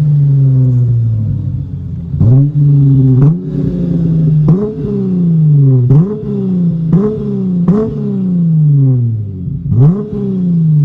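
Dodge Challenger's tuned exhaust with the engine revved in about seven quick throttle blips, each a sharp rise in pitch that falls back toward idle before the next.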